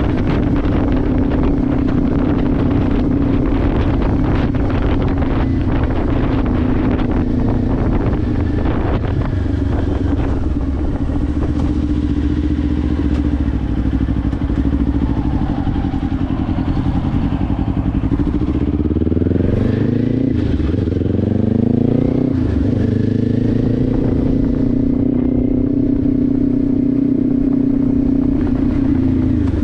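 Kawasaki Ninja 500's parallel-twin engine through a Leo Vince aftermarket exhaust, heard from the rider's position, running at steady cruising revs with wind noise on the microphone. A little past halfway the revs climb twice in quick succession, with a gear change between, as the bike accelerates, then settle back to a steady cruise.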